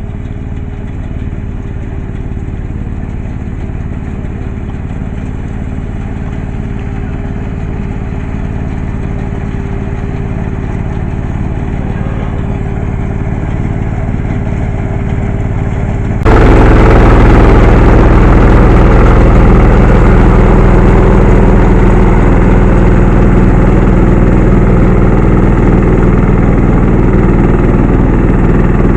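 Small 4LZ-1.2 crawler combine harvester running steadily, its engine and machinery giving a constant pitched hum. About halfway through, the sound jumps abruptly louder and fuller and then stays steady.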